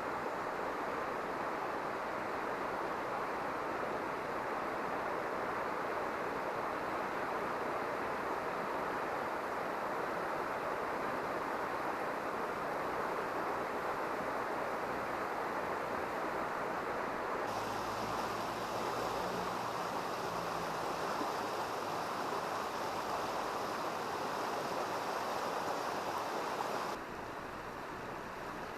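Mountain stream rushing steadily, a constant hiss of flowing water, which shifts abruptly in tone twice: about two-thirds of the way in and near the end.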